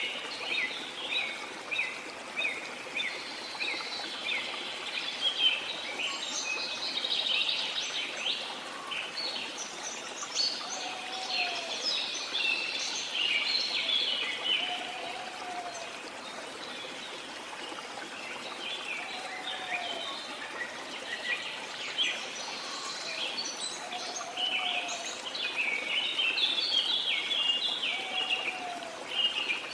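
Many birds chirping and calling over a steady wash of running water. From about ten seconds in, one lower slurred call repeats roughly every four seconds.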